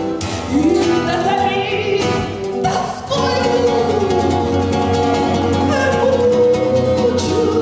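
Woman singing a Russian romance with instrumental accompaniment, holding one long note from about three seconds in.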